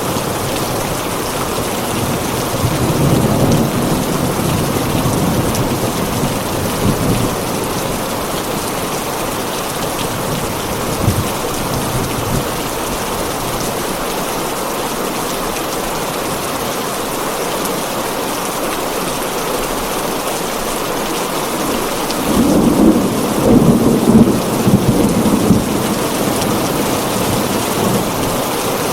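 Heavy rain on a tin roof, a steady dense hiss, with low rolls of thunder a few seconds in and again, louder, near the end.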